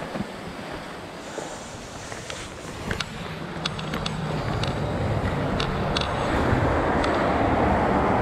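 Steady rushing of a tall waterfall mixed with wind on the microphone, growing louder through the second half, with a few light clicks along the way.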